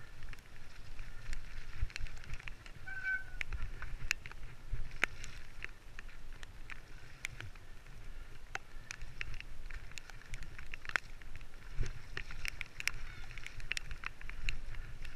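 Mountain bike riding over a rough wooded trail: irregular clicks, knocks and rattles from the bike over a low rumble on the microphone, with a brief squeak about three seconds in.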